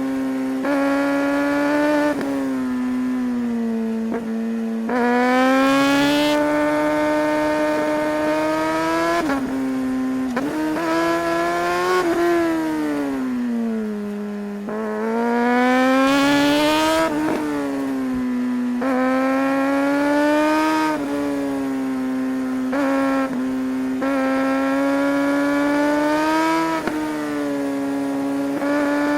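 Suzuki GSR 600 inline-four engine pulling through the gears, heard from on board: the pitch climbs, breaks briefly at each quickshifter upshift, and slides down on deceleration before climbing again, over and over. Several hard pulls, the loudest about six and sixteen seconds in.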